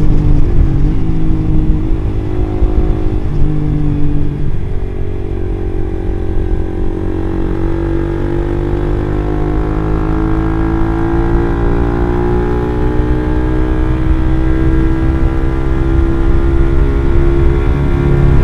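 Suzuki GSX-R150's single-cylinder engine running through an R9 Mugello aftermarket silencer while the bike is ridden. The note holds fairly level for the first four seconds or so, then rises slowly in pitch through the rest as the bike accelerates.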